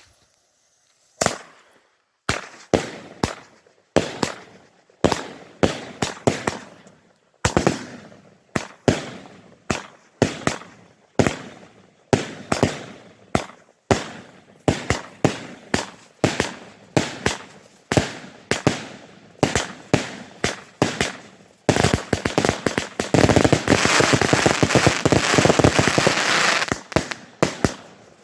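A 20 mm consumer fireworks battery (Space Galaxy TXB514 Triplex) firing, with sharp shots about one to two a second, each trailed by crackling. Near the end it breaks into a dense run of rapid crackling and pops lasting about five seconds.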